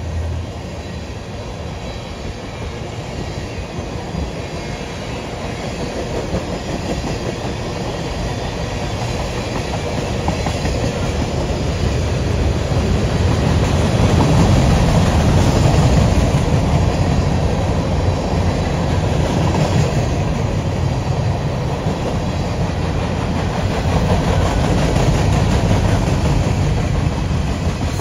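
A long freight train of tank cars, covered hoppers and boxcars rolling past close by, its steel wheels running on the rails as the train speeds up on an upgrade. The sound swells louder about halfway through and again near the end.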